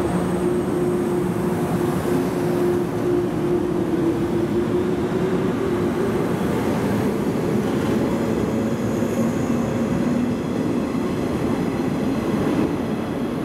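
413 series electric multiple unit pulling out of the station and accelerating past, its motor hum rising in pitch twice over the running noise of wheels on rails.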